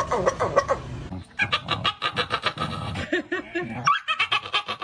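A dog making strange, grumbling vocal noises: fast runs of short pitched sounds, about ten a second, broken by a few rising-and-falling whines near the end, as if complaining.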